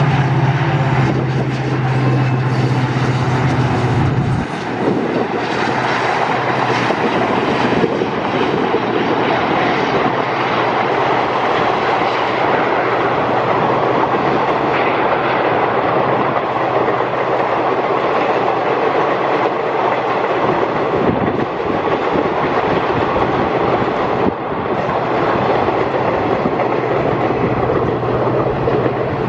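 Passing Indian Railways passenger train: the diesel locomotive's engine drones steadily for the first few seconds, then the coaches keep rolling past with a continuous rumble and the clickety-clack of wheels over rail joints.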